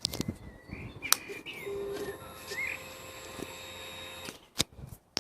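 Birds chirping in short rising calls, with a few sharp clicks and a faint steady whine in the middle; no engine running.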